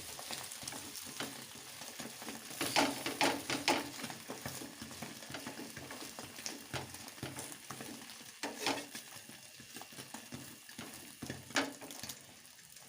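Food sizzling as it fries in a hot pan, with a cooking utensil stirring and knocking against the pan: a quick run of knocks about three seconds in, then single knocks now and then.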